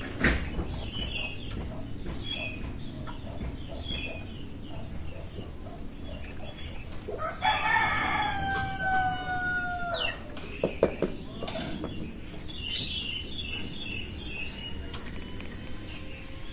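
A rooster crows once, a pitched call of about three seconds that slides slightly down at the end, about seven seconds in, over small birds chirping again and again.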